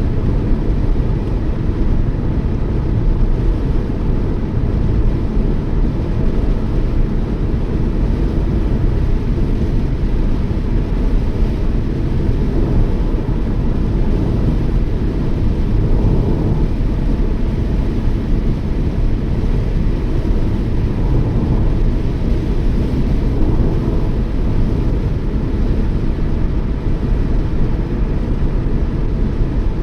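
Steady road and engine noise of a moving Toyota Yaris, a low even rumble without changes.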